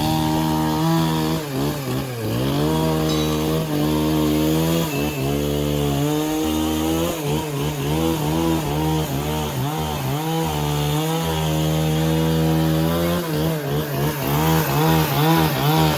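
Motor-driven saw cutting a log: a steady, loud motor note whose pitch sags briefly again and again as the blade bites into the wood.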